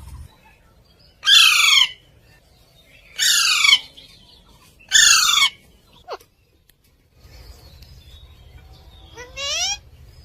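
Ringneck parrot (rose-ringed parakeet) calling: three loud calls about two seconds apart, each falling in pitch, then a brief call and a quieter rising call near the end.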